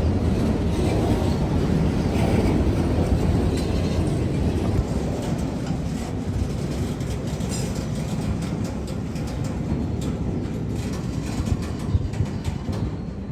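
Freight train rolling past, a steady rumble of wheels on rail with repeated clicks and clacks.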